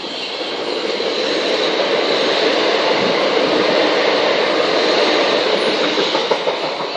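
Southern Class 377 electric multiple unit running through the station. Its rumble builds from the start, is loudest in the middle and eases toward the end.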